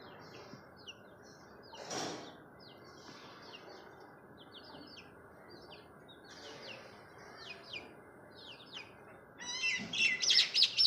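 Myna calling: a run of short, high chirps, with a louder cluster of chattering calls near the end.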